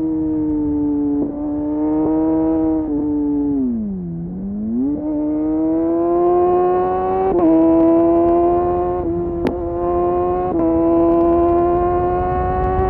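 Kawasaki Ninja sport bike engine through an Arrow exhaust with the dB killer removed, pulling under throttle. Its note climbs slowly, drops sharply and recovers about four seconds in, and steps briefly a couple of times as gears are changed.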